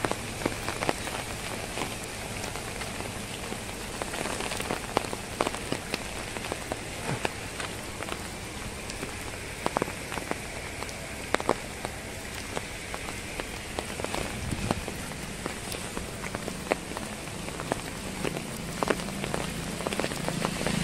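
Heavy monsoon rain falling steadily, with many scattered sharp drop hits close by.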